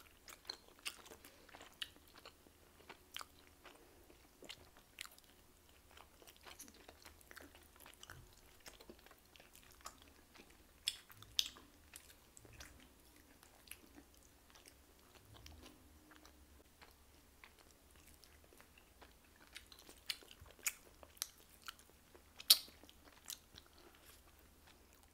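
Two people biting into and chewing homemade pizza: soft chewing and mouth sounds broken by many small crisp clicks and crunches, the loudest about three-quarters of the way through.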